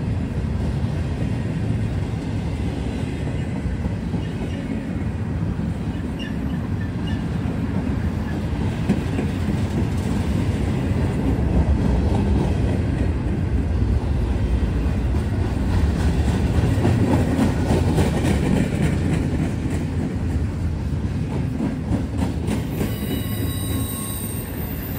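Norfolk Southern freight train's cars rolling past: a steady low rumble of steel wheels on rail with scattered clicks over rail joints, and a thin high wheel squeal near the end.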